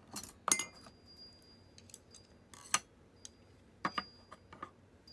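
Chopsticks clinking against a dish while eating: about eight sharp taps, the loudest about half a second in and near the middle, several leaving a short high ring.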